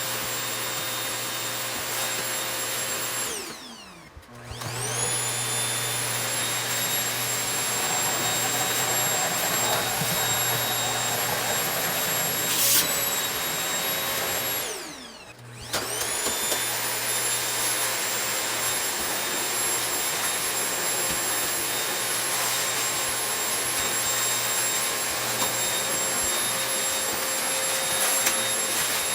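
Vacuum cleaner running steadily with a high motor whine. Twice the motor winds down, its whine falling away, then starts up again and whines back up to full speed.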